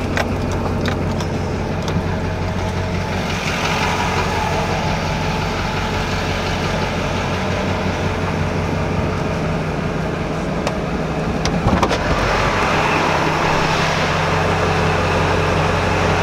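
Vehicle engine running steadily with a low hum, heard from inside the cab, with a few light clicks near the start and a short knock about twelve seconds in.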